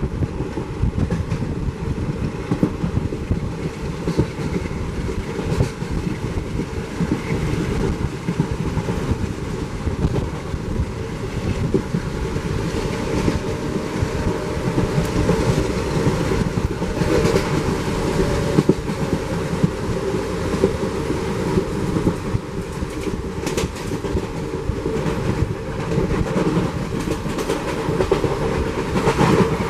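Rajyarani Express passenger coach running along the track, its wheels clicking over rail joints amid a steady rumble, heard from the open coach doorway.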